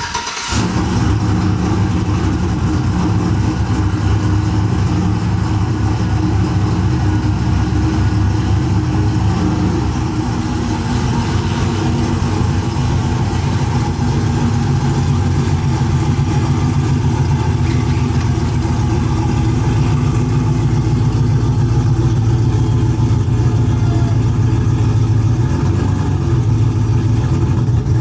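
A pickup truck's engine running steadily, a loud low drone whose pitch shifts slightly about ten seconds in.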